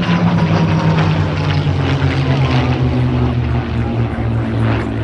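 Propeller aircraft flying past, its loud engine and propeller drone slowly falling in pitch as it goes by.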